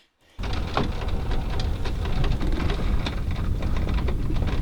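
A loud, steady low rumble with a dense crackle of small clicks over it starts abruptly about half a second in.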